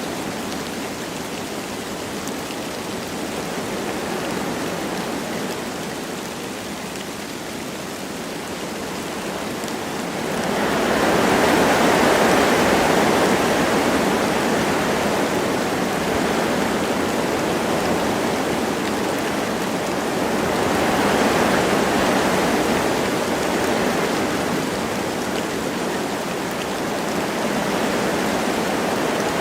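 Wind blowing through forest trees with light rain falling, a steady rushing that swells in gusts about ten seconds in and again around twenty seconds.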